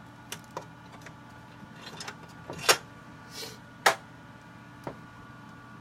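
Scattered small clicks and knocks of a screwdriver working at the screws and plastic casing of an Xbox One console being taken apart, with two louder knocks near the middle. A steady low hum runs underneath.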